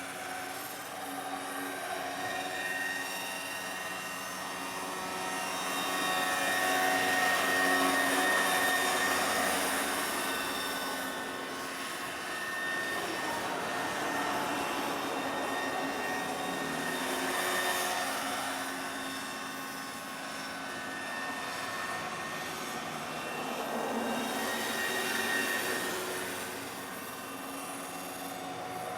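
Quarter-scale radio-controlled MD 500E model helicopter in flight, its rotors and engine running with a steady whine that swells louder and fades about three times as it moves about.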